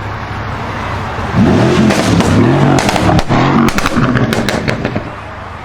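Mercedes CLS63 AMG BiTurbo's RENNtech-tuned twin-turbo V8 idling, then revved hard in several quick blips, rising and falling, from about a second and a half in, with sharp exhaust crackles and pops; it settles back to idle near the end.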